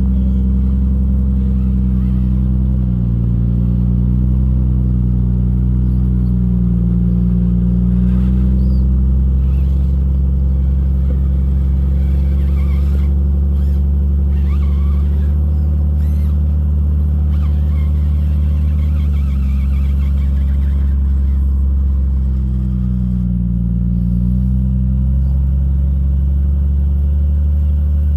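Jeep Cherokee XJ's engine running at low, steady revs while rock crawling, its pitch rising and falling slightly a few times.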